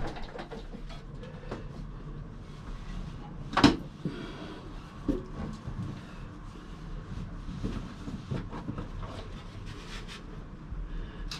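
Scattered light knocks and clicks of handling in the engine bay, with one sharp knock about three and a half seconds in.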